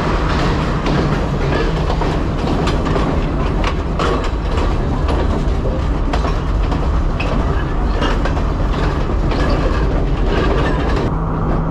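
Passenger train running along the track, heard from on board: a steady, loud rumble with many quick clicks of the wheels over rail joints.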